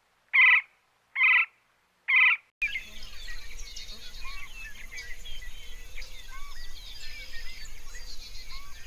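An animal's short call repeated three times at about one a second, then a sudden change to a dense chorus of birds chirping and whistling over a steady hiss, with insects also buzzing.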